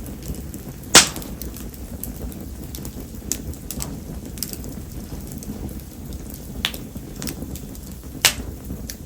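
Spindle-tree (mayumi) firewood burning in the rain: a steady low rush of flames and rain. Scattered sharp clicks run through it, with two loud ones about a second in and near the end.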